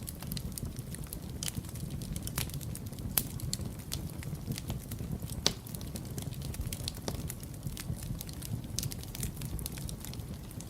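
Wood fire burning in a fireplace: a steady low rumble of the flames with irregular sharp crackles and pops from the burning logs, two louder pops standing out.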